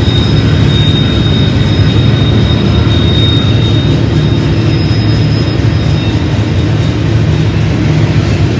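BNSF manifest freight train rolling past: a loud, steady rumble of the cars on the rails, with a thin, steady high-pitched wheel squeal over it.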